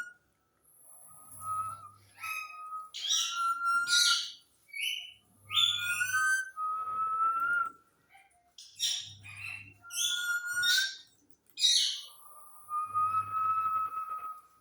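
Pet parrot whistling: a string of steady, held whistles, each about a second long, alternating with short chirps and squawks.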